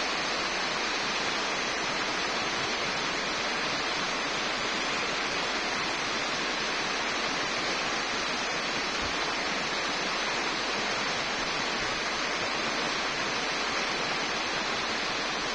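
Bonfire burning with a steady rushing hiss.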